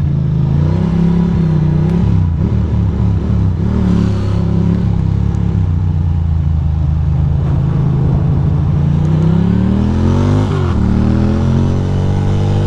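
Ducati Monster 821's 821 cc V-twin engine running under way, the engine note dipping and rising with the throttle. From about nine seconds in the revs climb, drop sharply at a gear change about ten and a half seconds in, then climb again as it accelerates.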